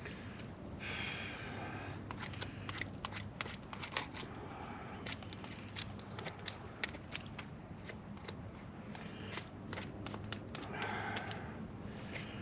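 Knife blade scraping and shaving bark off a small wooden stick: irregular, quick dry clicks and scrapes, with a few longer rasping strokes about a second in and again near the end.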